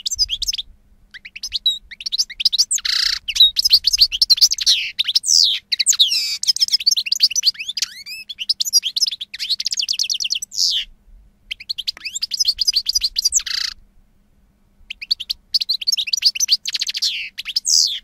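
A songbird singing long runs of rapid trills and whistled pitch glides, with a short break about eleven seconds in and a longer pause around fourteen seconds.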